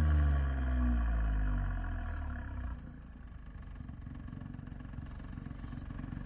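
Ford ST engine and twin exhaust, its revs falling away after a rev, then settling to a steady idle about three seconds in.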